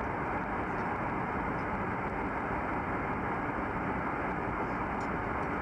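Steady airliner cabin noise in flight: an even, unchanging rushing hum.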